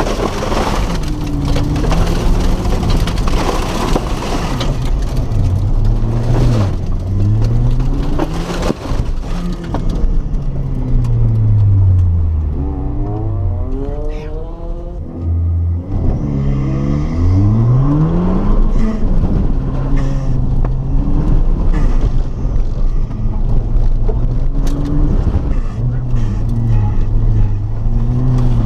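Rallycross car's engine being driven hard, its pitch climbing and dropping again and again as it revs through the gears and lifts for corners. About halfway through it settles briefly to a low, steady note before pulling up again.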